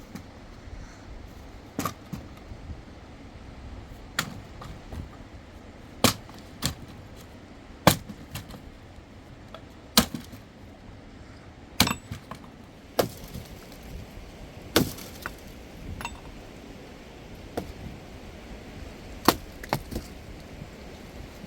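A series of sharp knocks or blows, about a dozen, spaced roughly one to two seconds apart over a steady background hiss.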